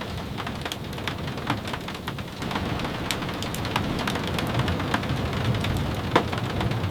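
Steady rain with a low rumble underneath and scattered sharp ticks and pops, the loudest about six seconds in.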